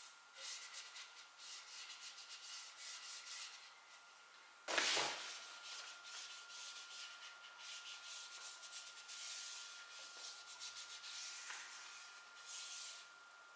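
Wood being sanded by hand with sandpaper in quick back-and-forth strokes, with one louder scrape about five seconds in.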